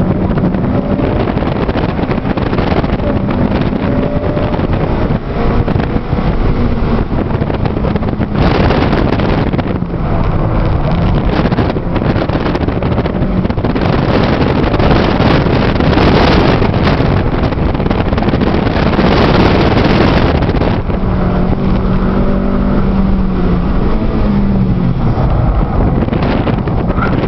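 2008 Honda Civic Si sedan's 2.0-litre four-cylinder engine pulling at track speed, heard from inside the cabin under heavy wind and road noise. The rushing noise is loudest through the middle; late on the engine note holds steady, then drops away near the end.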